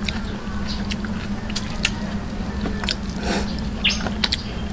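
Close-up eating sounds of people chewing stewed eel and rice with their hands: wet chewing and lip smacks with scattered sharp clicks, over a steady low hum.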